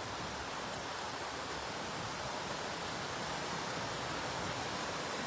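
Steady rushing of water pouring over a small creek waterfall, an even hiss that holds without change.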